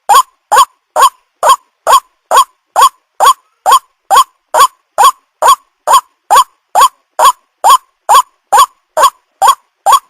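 White-breasted waterhen (ruak-ruak) calling: a short, rising note repeated very evenly, a little over twice a second.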